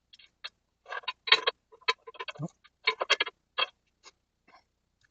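Irregular metallic clicks and clinks of hand tools being worked, in short clusters, the loudest about a second in and again about three seconds in.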